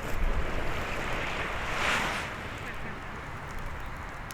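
Sea waves washing on the shore, one wave swelling and falling away about two seconds in, over a low rumble of wind on the microphone.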